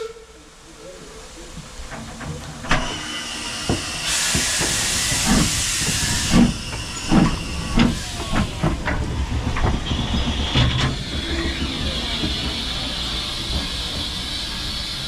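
Steam locomotive letting off steam with a loud hiss, then giving a series of exhaust chuffs that come closer together as it gets under way, settling into a steady hiss of steam.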